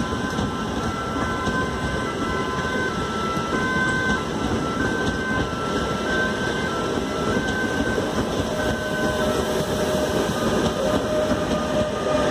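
Intercity train of ICRm passenger coaches pulling out of a station and rolling past, with a steady rumble of wheels on the rails. Thin whistling tones step up and down in pitch through most of it, and a steady whine sets in about two-thirds of the way through as the train gathers speed.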